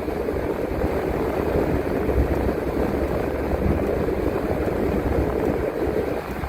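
Transit bus running along the road, heard from the driver's seat: a steady engine and road rumble that eases slightly near the end.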